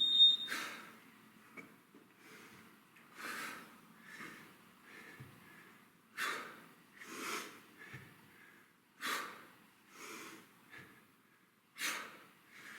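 A man breathing hard through a set of staggered kettlebell deadlifts, short exhale-and-inhale pairs about every three seconds.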